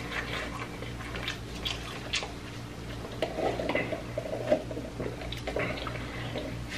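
A person chewing food close to the microphone: wet, squishy chewing with scattered short mouth clicks, over a faint steady low hum.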